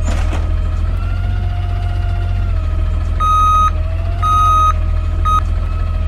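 Old side-loader garbage truck running with a steady whine over its engine rumble, its reversing alarm beeping three times in the second half, the third beep cut short.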